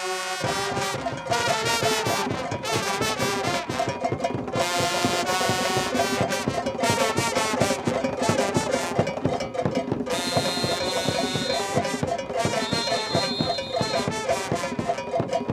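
Cuban carnival conga music: a brass section playing over dense, driving percussion.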